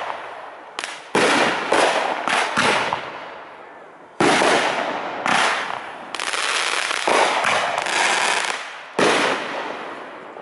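Aerial fireworks shells bursting one after another: about ten sharp, loud bangs, some close together, each fading away over a second or so.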